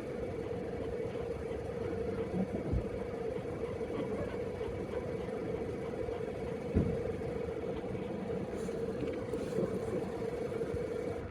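A steady motor-like hum with a strong constant pitch, over a low rumble, broken twice by a brief low thump.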